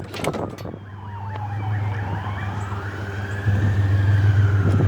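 An emergency-vehicle siren wailing in slow rises and falls, over a vehicle engine's steady low hum. A few clanks sound in the first second.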